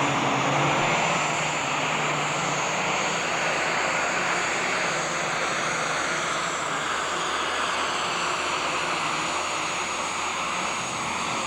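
Super stock pulling tractor's turbocharged diesel engine running flat out through a pull, a loud steady roar with a high turbo whine over it. The roar eases off a little toward the end.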